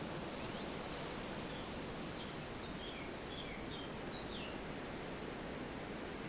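Steady forest wind, an even rushing hiss through the trees, with faint short bird chirps and down-slurred notes, a quick run of them from about two to four and a half seconds in.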